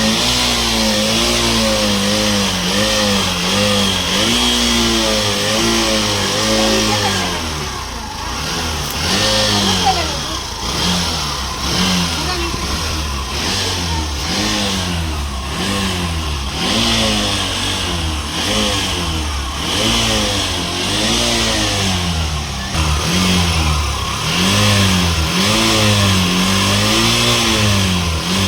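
Single-cylinder engine of an old Hero Glamour motorcycle running and being revved over and over, its pitch rising and falling in quick blips about once a second, with a few longer swells later on.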